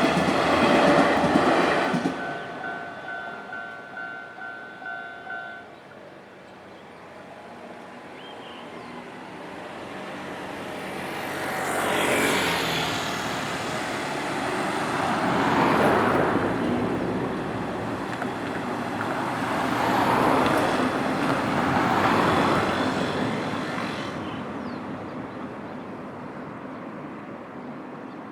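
A Nankai Main Line train's last cars rattling over the level crossing, cutting off about two seconds in. A faint repeating crossing signal sounds on for a few seconds and stops. Road vehicles then drive over the crossing several times, each rising and fading.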